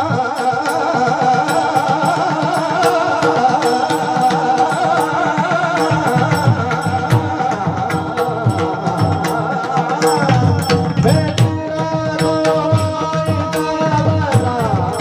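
Warkari bhajan music: pakhawaj drumming with bright, evenly repeated metallic strokes over a sustained melody line. About ten seconds in, a sliding, wavering melody line comes in.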